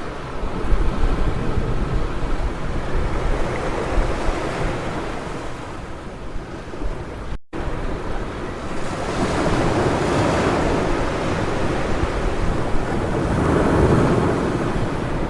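Ocean surf washing onto a beach, a steady rush of breaking waves that swells louder twice in the second half, with wind rumbling on the microphone. The sound cuts out for an instant about halfway through.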